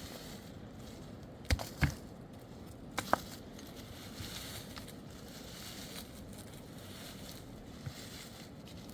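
Four sharp knocks in two close pairs, the first pair about a second and a half in and the second about three seconds in, with one faint knock near the end, over a steady low outdoor background.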